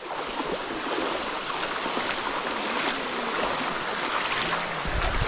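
Water rushing steadily down a waterfall's rock face close by, with small splashes throughout and a brief low thud near the end.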